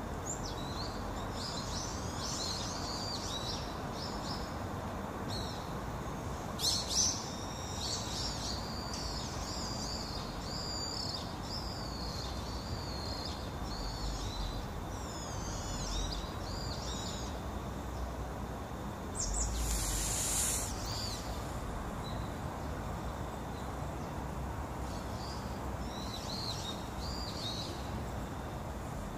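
Small birds chirping and singing in quick gliding high notes over a steady background hiss, with two sharp knocks about seven seconds in and a short louder rush of noise about two-thirds of the way through.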